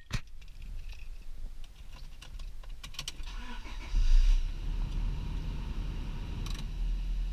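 2000 Honda Prelude's four-cylinder engine being started cold after sitting three weeks: a few clicks, then a short crank, and the engine catches about four seconds in. It settles into a steady idle.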